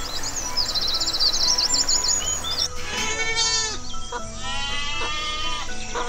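High, fast-trilled calls of waxwings for the first couple of seconds, then a young goat bleating twice in two long bleats.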